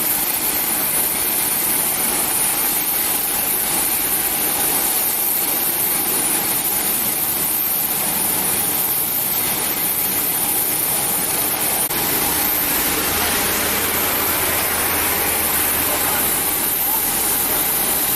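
Airliner jet engines running at taxi power: a steady whine with high-pitched tones over a broad rush. A lower rumble joins about twelve seconds in.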